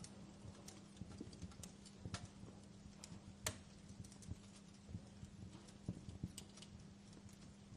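Wood fire in a fireplace crackling: irregular sharp pops and snaps, a few each second, over a low steady background with a faint hum.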